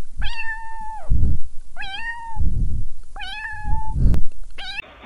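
Kitten meowing with its head inside a drinking glass: three long meows that hold steady and then drop in pitch, and a short fourth one near the end, with low thumps between the calls.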